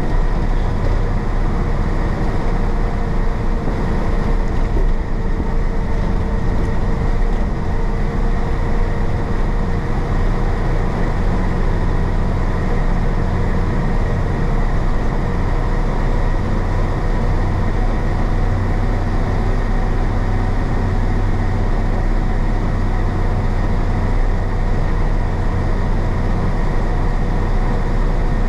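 1966 Isuzu BXD30 bonnet bus's DA640 diesel engine running steadily under way, a deep continuous rumble with a steady hum over it.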